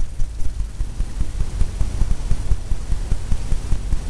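Paintbrush tapping repeatedly on a stretched canvas while dabbing on white highlights, an irregular run of dull low thumps several times a second.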